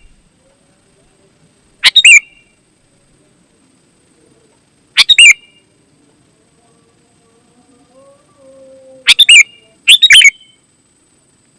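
Sooty-headed bulbul (kutilang) calling: four short, loud calls spaced a few seconds apart, the last two less than a second apart near the end.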